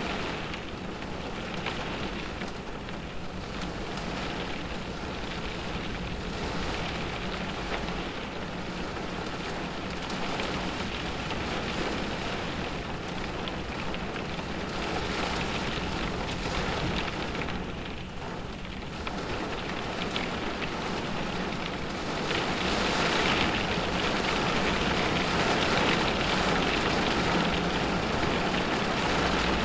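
Rain falling on a car's roof and windows, heard from inside the cabin: a dense hiss of many small drop ticks that swells and eases with the wind. It dips briefly a little past the middle and grows louder for the last several seconds.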